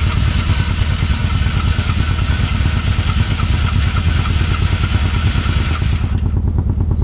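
Off-road vehicle engine running steadily with a low, rapid pulsing. A higher rush with a faint whine sits on top and cuts off about six seconds in.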